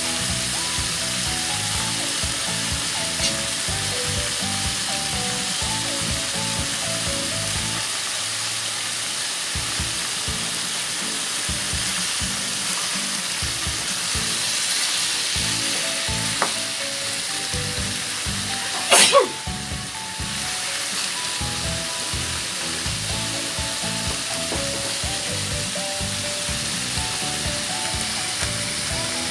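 Pork pieces sizzling as they fry in a nonstick pan, stirred now and then with a spatula. A brief, loud scrape or clatter comes about two-thirds of the way through.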